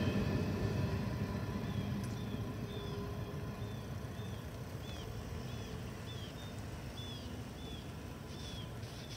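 The low rumble of a train that has just passed the crossing, fading away steadily. A faint, short high chirp repeats about twice a second over it.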